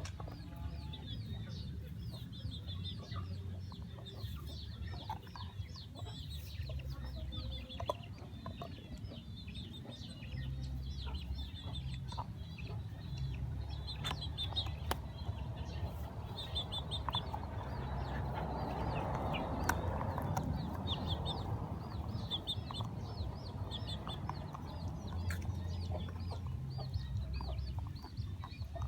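Birds clucking and chirping, with many short high calls over a steady low rumble. There are a few sharp cracks, and a rougher noise swells in the middle.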